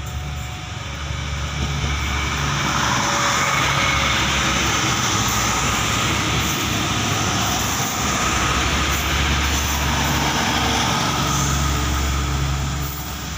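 Diesel multiple unit passing close by: a low diesel engine drone under the rumble of steel wheels on the rails. It builds over the first couple of seconds, holds steady, and falls away near the end.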